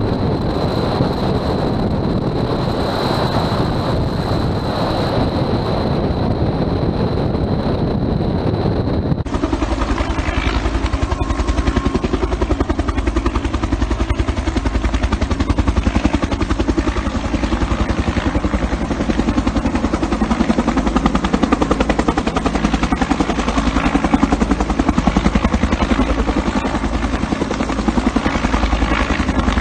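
Bell 210 (UH-1) helicopter running, its two-bladed main rotor beating with the turbine behind it. About nine seconds in the sound changes abruptly to a fast, even rotor beat.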